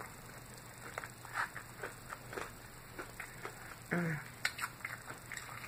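Close-miked chewing of salad: irregular soft crunches and wet mouth clicks, with a brief hummed voice sound about four seconds in.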